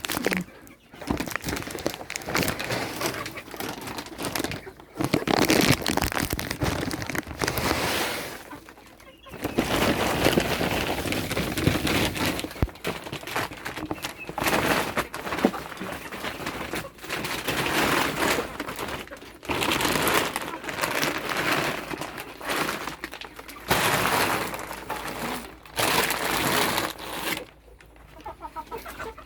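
Dry poultry feed being stirred and scooped by hand, a crunching rustle that comes in bursts of a few seconds with short pauses between.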